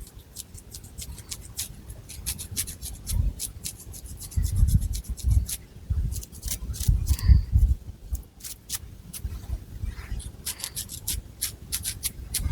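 Long fingernails scratching through thick long hair and over the scalp, close to the microphone: a run of quick, crisp scratches, with soft low thumps every second or two.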